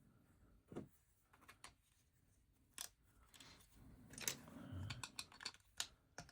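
Plastic LEGO bricks being handled and pressed together: a scattering of small, sharp clicks at irregular intervals, with some soft rustling in between.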